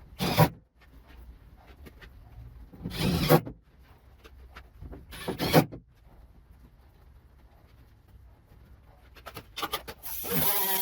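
A few short scraping sounds and clicks, then near the end a small power tool's motor starts and runs steadily with a whine.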